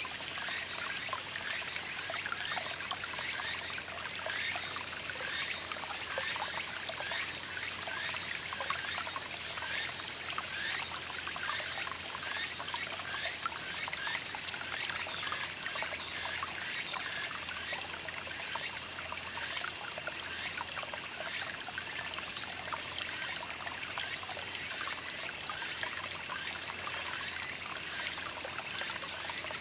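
Small garden stream babbling and trickling over stones, with a steady high-pitched insect chorus that swells up over the first dozen seconds and then carries on above the water.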